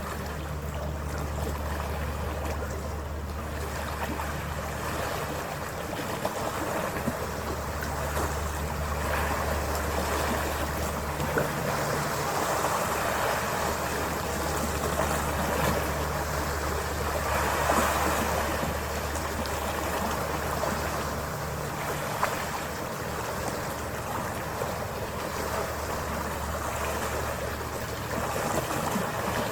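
Passenger ferry under way: a steady low engine drone under the rush of water along the hull and wind on the microphone, the rushing swelling briefly in the middle.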